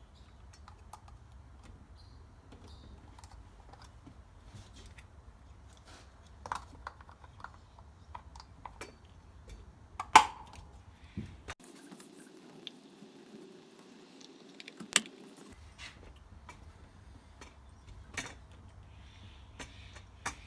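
Scattered small clicks and knocks of wheel inserts being pushed onto a lawn edger's front wheels by hand, with sharp snaps about ten and fifteen seconds in. A low steady hum runs underneath and drops out for a few seconds in the middle.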